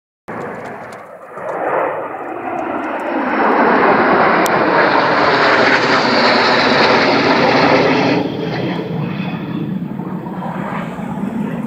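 Airplane flying past: engine noise swells over a few seconds, is loudest in the middle, then falls away about eight seconds in and carries on lower as it moves off.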